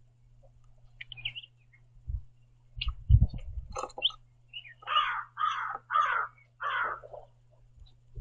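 A bird giving four harsh cawing calls in quick succession, starting about five seconds in. Before them come a few short, thin chirps and some low thumps.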